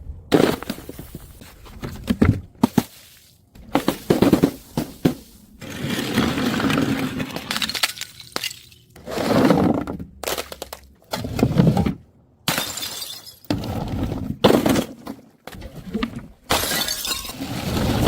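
Glass bottles smashing one after another: a string of separate crashes with crunching and tinkling shards, each cut off abruptly before the next.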